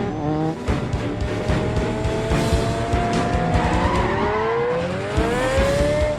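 Car chase soundtrack: a sports car engine revving hard with its pitch climbing through the gears and tyres squealing, over driving action-score music.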